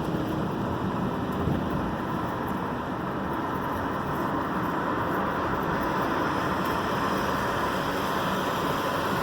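Steady car and road-traffic noise heard from inside a 2011 Ford Edge with its window lowered.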